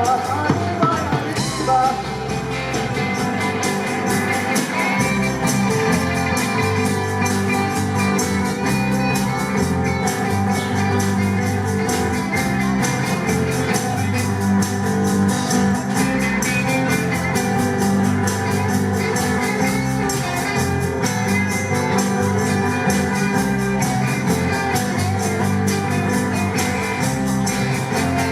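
Live band playing, full and continuous, with a steady beat.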